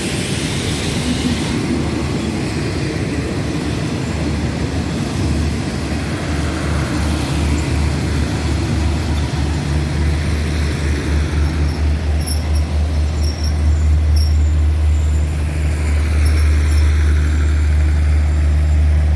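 Diesel train engine running: a low, loud drone that pulses for a few seconds and then grows louder and steadier about two-thirds of the way in.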